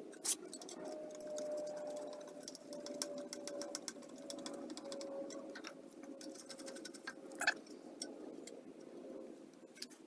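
Electric drill running steadily, drilling holes in a sheet-metal air deflector; its motor whine sinks slightly in pitch as it works. Two sharp clicks stand out, one just after the start and one about three-quarters of the way through.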